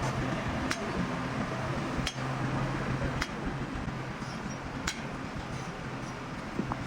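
Four sharp metallic clinks, irregularly spaced a second or so apart, over a steady low hum: metal being struck during truck bodywork repair.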